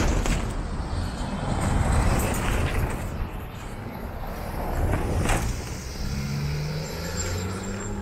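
A motor vehicle's engine running, with road traffic noise and a steady low rumble; the engine hum steadies into a low drone in the last couple of seconds.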